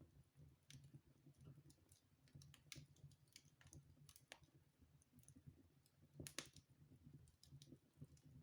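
Faint wood fire in a fireplace crackling, with irregular small pops and one louder pair of snaps a little after six seconds in.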